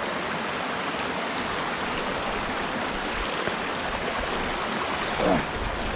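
Stream water rushing steadily. A brief vocal sound breaks in near the end.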